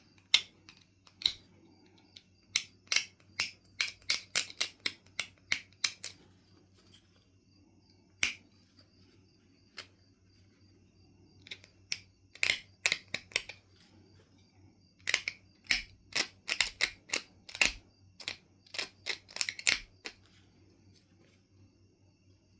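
Knife River Flint clicking sharply as it is worked with knapping tools, in quick runs of clicks with short pauses between.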